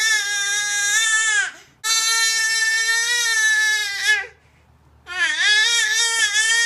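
A baby crying hard in long, drawn-out wails, three in a row, each held for a couple of seconds with a short catch of breath between them.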